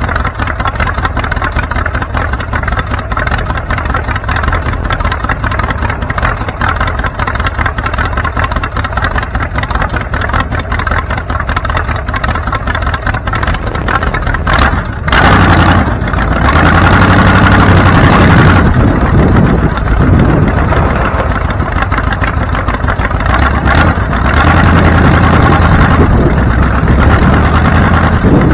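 Car driving, with steady engine and road noise. From about halfway the engine gets louder as it pulls harder and its note rises and falls.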